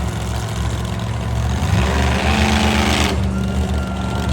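Monster truck engine running, revving up about two seconds in with a rising surge of noise that cuts off suddenly a second later, then a faint steady tone near the end.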